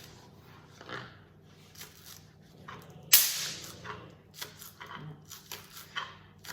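Electric bug zapper crackling once, about three seconds in, as a fly is electrocuted on its grid. It is a loud, sharp crack that dies away quickly.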